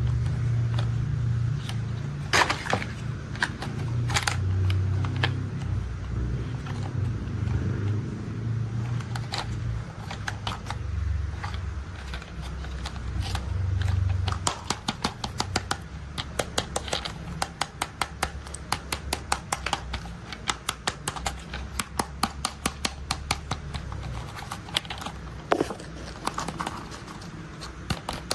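Plastic toy construction vehicles being handled: a low rumble for about the first half, then a long run of quick plastic clicks, several a second.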